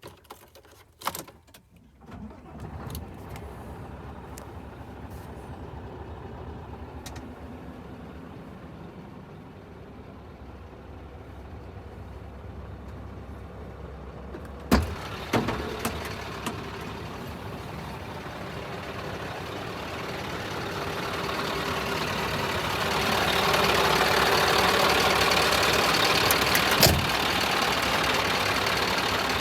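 Scania R560's V8 diesel engine starting about two seconds in and then idling steadily. There is a sharp knock about halfway through and a few clicks. Over the last third the sound grows louder, with more hiss.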